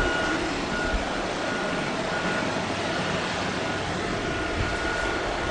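China Airlines Airbus A350-941's Rolls-Royce Trent XWB jet engines running, a steady rushing noise with a faint high whine that comes and goes.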